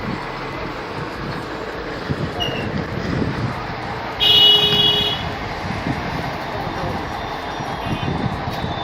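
Steady traffic noise, with a vehicle horn honking once for about a second about four seconds in; the horn is the loudest sound.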